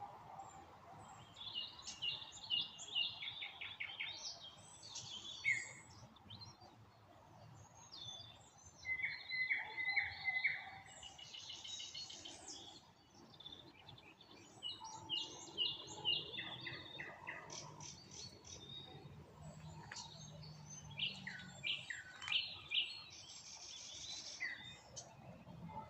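Nightingales singing: phrases of loud, rapidly repeated notes and rattling trills, each phrase broken off by a short pause before the next.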